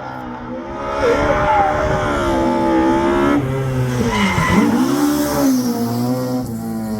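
Historic rally car's engine at high revs as the car passes, rising in pitch through the first seconds, then dropping sharply about four and a half seconds in and climbing again.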